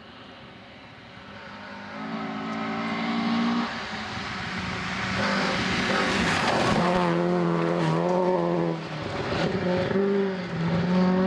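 Rally car engine approaching under power and passing close, with a rush of tyre and road noise about six to seven seconds in, its revs rising and falling as it drives on. The engine note dips briefly near the nine-second mark, then climbs again.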